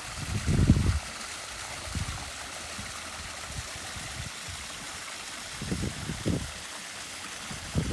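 Backyard pond waterfall splashing and trickling steadily, with a few low, muffled bumps in the first second and again about six seconds in.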